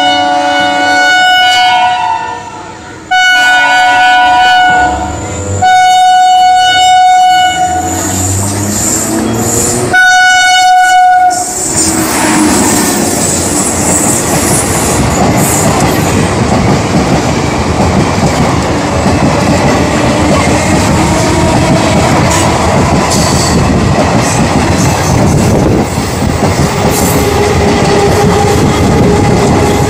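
Indian Railways electric locomotive sounding its horn in four long blasts over the first eleven seconds or so, then its ICF coaches running past at speed, a loud steady rush with the wheels clattering over the rail joints.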